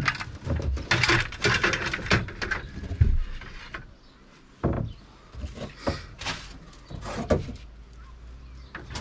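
Irregular knocks, clicks and scrapes of objects being handled and shifted about, busiest in the first few seconds and sparser after.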